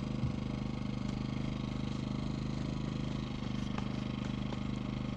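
A small engine running steadily at constant speed, with a few faint knocks over it.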